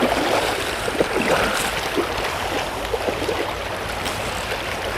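Water rushing steadily over a shallow gravel riffle of a trout river, an even wash with small burbles and splashes in it.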